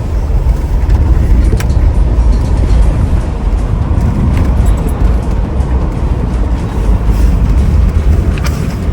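A vehicle engine running steadily under way, a deep low rumble with a noisy haze above it, broken by two brief sharp clicks, one near the start and one near the end.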